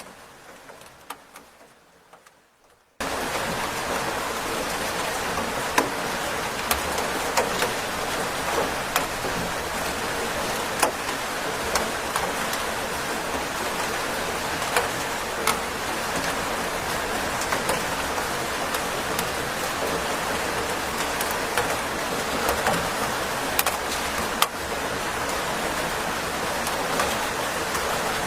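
Steady rain falling, an even hiss dotted with many individual drops ticking. It cuts in abruptly about three seconds in, after a quieter, fading stretch with a few scattered drips.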